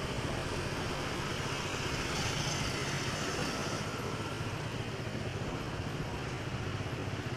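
Motorcycle engine running steadily at low revs, with street traffic around it.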